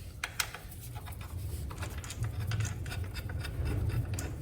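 Irregular small metal clicks and scraping as the foot peg's two bolts are worked loose with an 8 mm Allen key and the foot peg is freed, over a low rumble.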